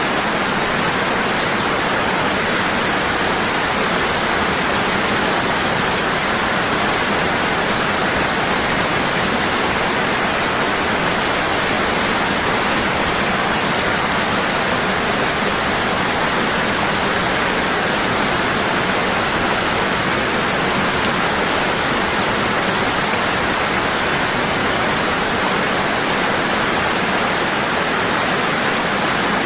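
Waterfall: water falling heavily and constantly in a steady, unbroken rush.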